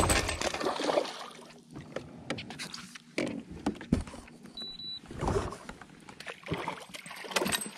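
A fishing kayak being handled on the water: irregular knocks against the hull and short swishes of water.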